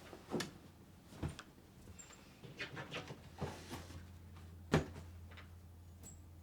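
Household handling noises: scattered soft knocks and clicks, with one sharper knock about three quarters of the way in, over a low steady hum.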